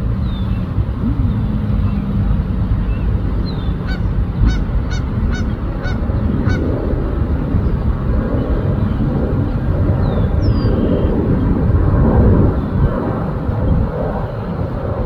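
Geese honking: a quick run of about five honks a few seconds in, over a steady low rumble of background noise.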